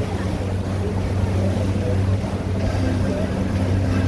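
River cruise boat's engine running steadily with a constant low drone.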